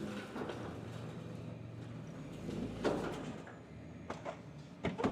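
A vehicle engine idling low and steady that fades out after about three and a half seconds, with a louder clunk about three seconds in and a few sharp knocks near the end.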